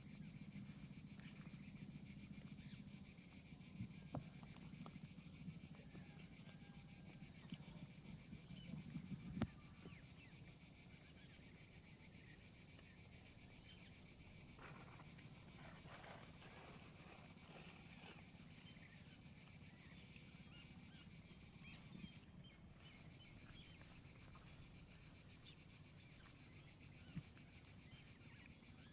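Faint, steady chorus of insects: a continuous high-pitched buzz that drops out for a moment about two-thirds of the way through, with a few soft scattered rustles and knocks.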